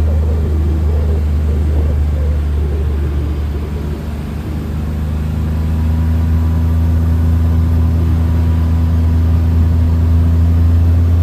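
Glass-bottom tour boat's engine running with a steady low drone, heard on board; it picks up slightly in level and pitch about halfway through.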